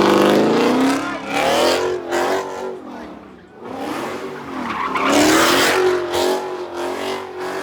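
Car engines revving hard with tires squealing as cars slide, in two loud surges: one at the start and another about five seconds in.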